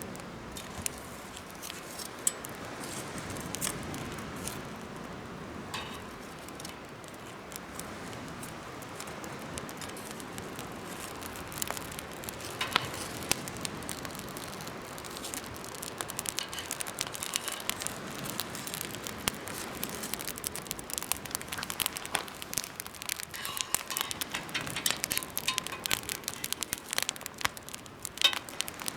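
Campfire burning in a homemade fire stand, with a steady low rush and sharp crackles and pops that come thicker from about halfway through.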